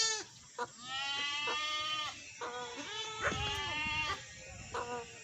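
Goat bleating repeatedly: long, wavering calls of about a second and a half each, with a short one near the end.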